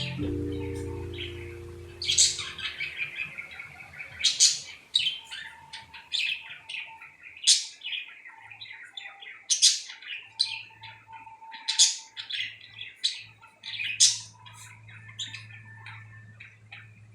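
Lovebirds chirping and squawking: sharp, high calls, one loud call every second or two with softer chatter between. A music track fades out in the first couple of seconds.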